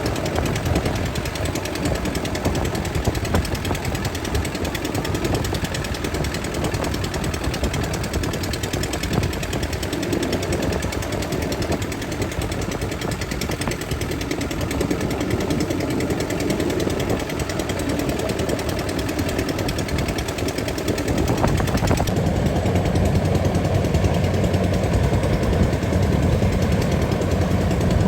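Rice combine harvester's engine and threshing machinery running steadily with a dense, rapid clatter; about three-quarters of the way through it grows louder and deeper.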